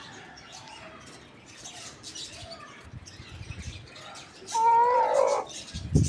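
A chicken gives one loud, wavering call about a second long, over faint chirping of small birds. Low rumbling thumps follow near the end.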